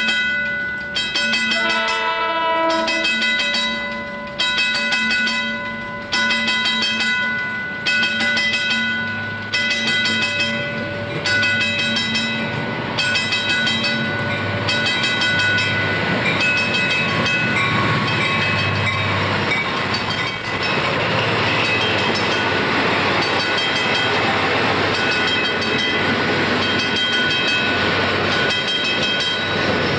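Pedestrian crossing bell striking steadily, about once a second, as a diesel-hauled Long Island Rail Road commuter train approaches. The locomotive's rumble and the steel wheels on rail build up to a steady rushing noise as the coaches pass close by.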